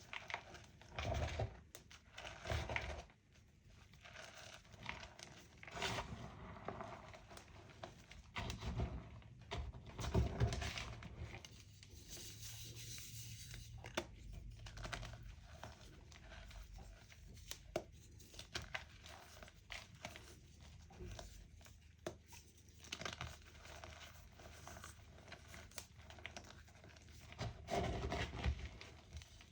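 Homemade gym chalk and reformed chalk crunching and crumbling in irregular crisp snaps and crackles, with heavier crunches about a second in, around the middle third and near the end.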